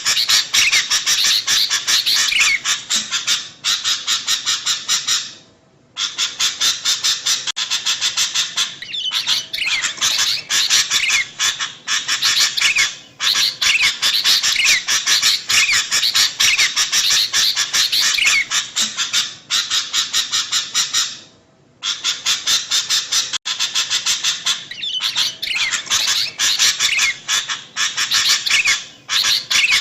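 Sooty-headed bulbuls (kutilang) chattering noisily in a dense run of rapid chirps and calls: a looped bird-lure recording. It breaks off briefly twice as the same stretch of calls starts over.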